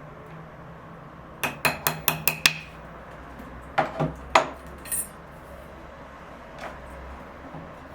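Sharp taps of a tool or small hard object on a hard surface: a quick run of about six taps a second and a half in, then three more around four seconds, over a steady low hum.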